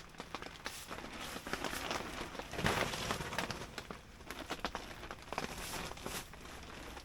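Plastic tarp rustling and crinkling irregularly as it is handled, with scattered crackles and a louder stretch about three seconds in.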